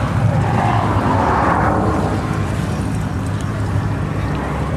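Steady running of machinery: a constant low hum with a noisy rush over it that swells a little about a second and a half in.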